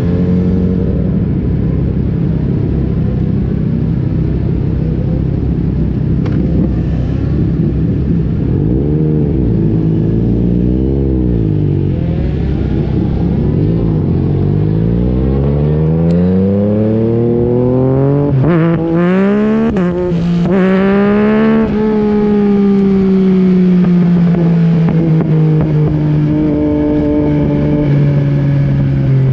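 2021 Yamaha MT-09's three-cylinder engine with an Akrapovic exhaust, ridden hard on a race track. The revs climb and drop repeatedly through gear changes, with a long climb past the middle broken by quick shifts. Then the revs drop sharply and the engine note falls away slowly near the end.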